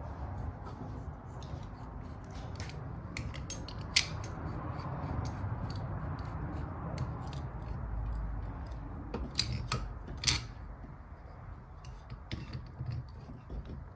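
Vise grips and metal parts clicking and scraping as crooked parts on a bicycle frame are clamped and twisted by hand, with scattered sharp clicks and a few louder knocks.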